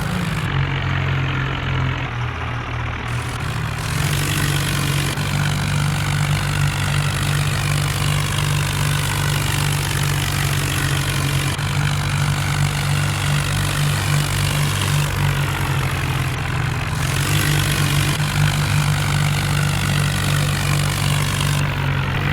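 Diesel tractor engines running hard and steady. The pitch and tone of the drone change abruptly several times.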